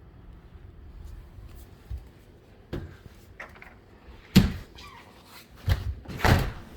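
A handful of sharp knocks and bumps: small ones about two and three seconds in, the loudest about four and a half seconds in, and a close cluster of three near the end.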